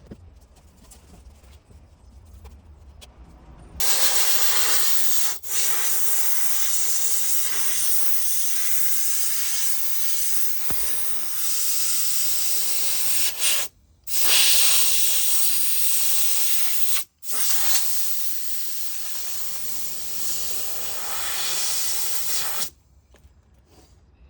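Compressed-air paint spray gun hissing steadily as base coat is sprayed onto the panel. It starts about four seconds in, cuts out for a moment three times, and stops shortly before the end.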